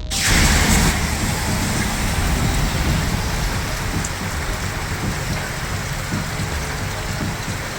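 Heavy rain pouring down steadily during a storm, with a strong uneven low rumble underneath.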